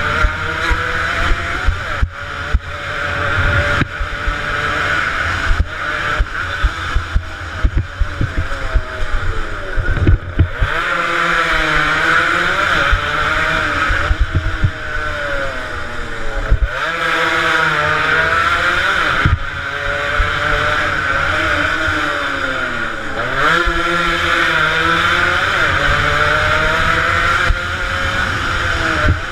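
Two-stroke motorcycle engines racing, which the uploader takes for Yamaha RD 135s: a rumbling, knocking stretch at first, then from about ten seconds in the engines rev hard, their buzzing pitch climbing and dropping again and again through gear changes.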